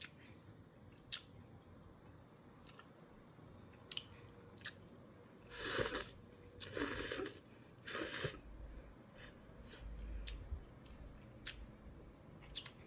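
A person eating instant ramen: three loud slurps of noodles in quick succession around the middle, with chewing and scattered small clicks of utensils against the bowl.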